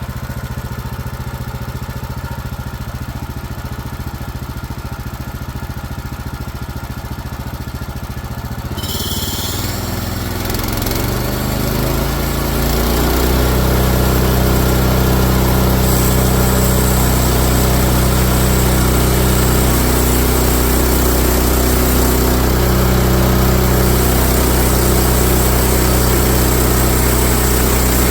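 Woodland Mills HM130Max band sawmill's gasoline engine idling steadily. About nine seconds in it is throttled up: a hiss joins as the band blade spins up, and the engine's pitch climbs. It then runs loud and steady at full speed, as when the blade is cutting through a log.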